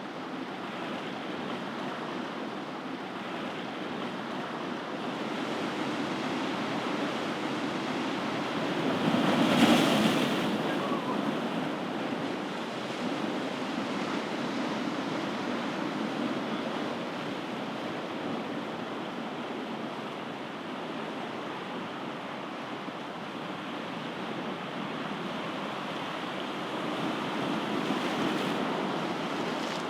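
Ocean waves washing onto a shore in a steady rushing surge. One wave breaks loudly about ten seconds in, and a smaller swell comes near the end.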